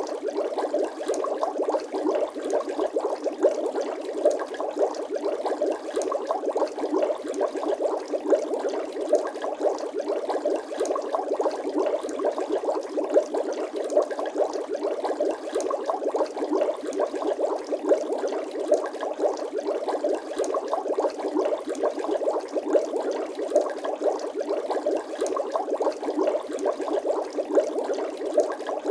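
Bubble sound effect: a steady, dense bubbling of many small pops and gurgles, with no deep tones.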